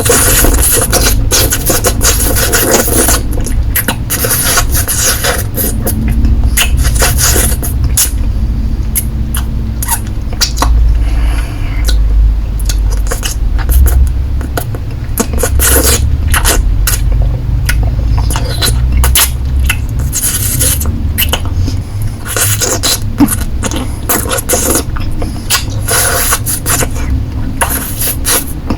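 Close-miked mouth sounds of a lollipop being sucked and licked: a steady run of wet clicks and smacks over a low rumble.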